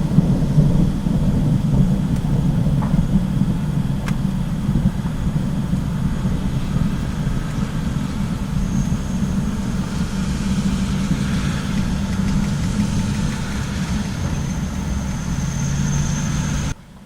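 Long, loud rolling rumble of thunder from an in-cloud lightning discharge about 2 km away. It cuts off abruptly near the end.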